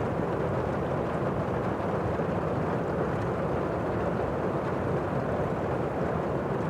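Heavy rain heard from indoors: a steady, muffled wash of rainfall.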